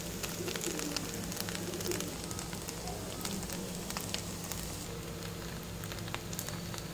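Egg Maggi noodles sizzling in a hot non-stick pan: a steady hiss with frequent small crackles, over a low steady hum.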